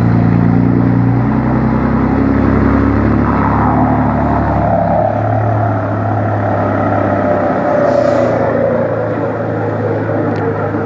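Scania 112HS truck's turbocharged diesel engine running, with the whistle of a comb fitted in the turbocharger intake. About three seconds in, the whistle sets in over the engine note and slowly falls in pitch over several seconds.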